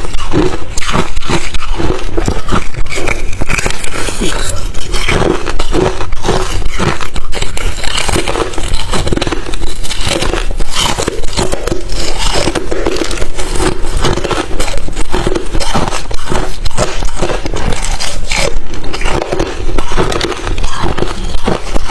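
Crushed, refrozen thin ice chips being bitten and chewed, a continuous run of loud, rapid crunches.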